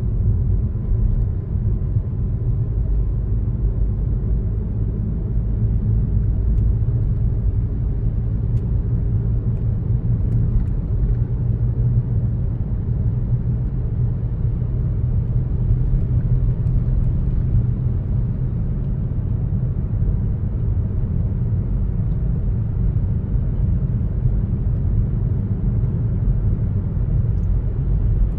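Car driving at a steady speed: a continuous low rumble of engine and tyres on the road.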